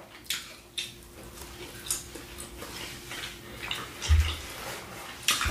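Close-miked eating sounds: wet chewing and mouth smacks from people eating shrimp and air-fried fish, in short irregular bursts, with a low thump about four seconds in.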